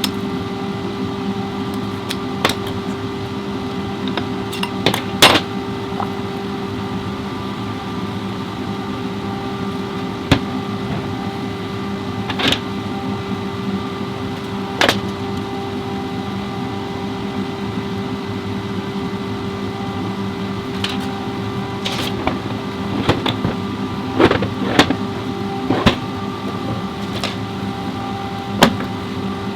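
A steady machine hum with sharp clicks and clanks scattered through it, the loudest about five seconds in and a cluster near the end.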